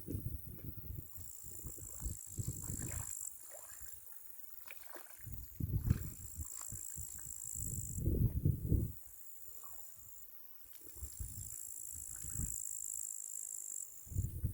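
Crickets trilling in a high, steady note that stops and restarts every few seconds, under irregular low thumps and rumbles, which are the loudest sound.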